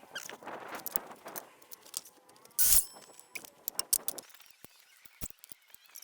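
Tools and lumber being handled while a stud template is measured and marked: scattered sharp clicks and light taps, with one short, louder scraping burst just under three seconds in.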